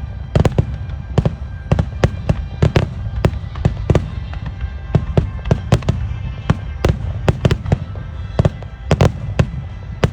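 Fireworks display going off in a rapid string of aerial shell bursts, several sharp bangs a second, over a steady low rumble of overlapping explosions.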